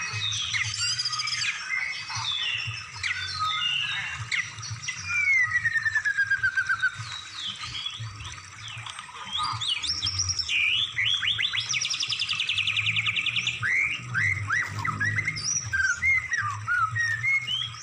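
Recorded songbird song, a mix of varied song phrases (masteran filler material for training caged songbirds): quick chirps, whistles and squawks, with a long falling whistle about three seconds in and a fast buzzy trill from about eleven to thirteen seconds.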